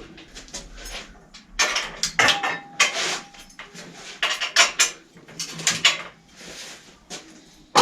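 Metal parts and tools clattering and clinking in a series of short, irregular bursts, as when rummaging among small metal items.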